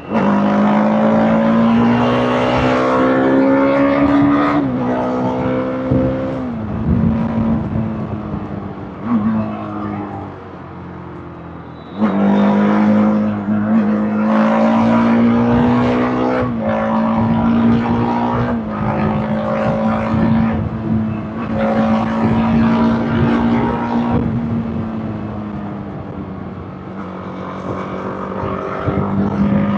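TVS Apache RR310's single-cylinder engine and exhaust under way, the pitch climbing within each gear and dropping at each upshift. It eases off for a few seconds, then pulls hard again about twelve seconds in.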